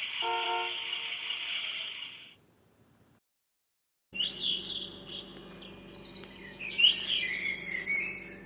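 Recorded night-animal sounds played through a children's sound book's small speaker: first a steady buzzing chirr for about two seconds, then, after a short gap, a run of bird-like chirps and whistling glides over a faint electrical hum.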